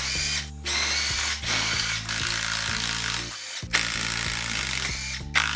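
Handheld electric power tool running in several long bursts with short breaks, its motor whine rising at each start. Background music with a steady bass line plays underneath.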